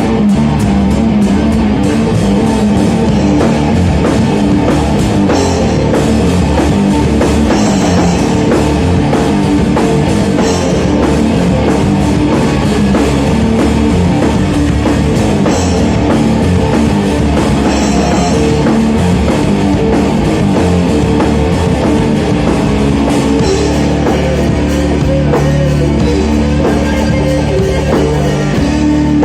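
Loud rock music with electric guitar and a drum kit, playing steadily.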